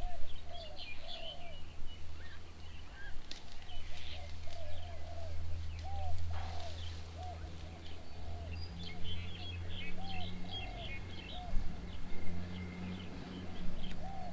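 Birds calling: a short, low, arched note repeats about every half second, with quick high chirps above it. A low steady hum runs underneath.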